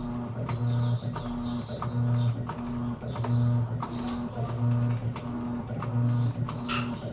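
Electrolux Essential Care LES11 top-loading washing machine agitating its load, the motor humming in regular pulses a little more than once a second, with softer swishes in between.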